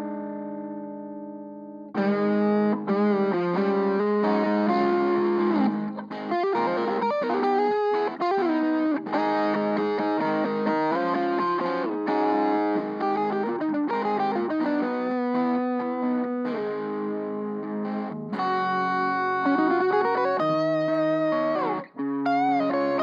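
Electric guitar played through a Seymour Duncan Forza Overdrive pedal into an Orange Micro Terror amp, giving a distorted lead tone. A held chord rings out and fades, then about two seconds in a lead line of quick single notes begins, with several string bends and a held note shaken with vibrato near the end.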